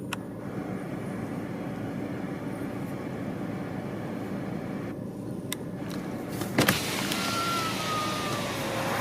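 Car cabin noise while driving, a steady low hum of engine and road. There are a few faint clicks, then a louder click about two-thirds of the way in, after which a brighter hiss of outside air grows louder.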